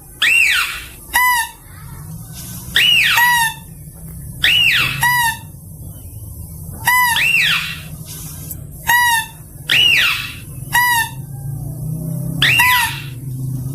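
Mouse-deer (kancil) calls played as a lure recording: a short, bright pitched call and a longer squeal that rises and falls, repeating about every two seconds.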